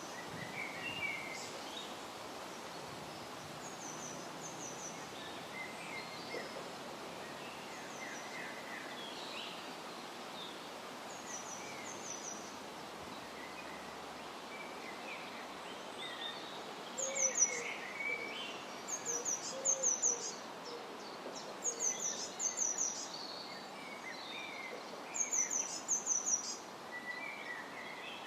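Several birds calling and singing over a steady rush of wind noise. Short high phrases repeat more often and louder in the second half, and a lower two-note call sounds a few times in the middle.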